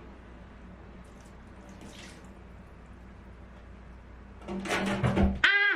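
Tap water running steadily during a cat's bath. About four and a half seconds in there is a loud burst of splashing and scuffling, then a short cry.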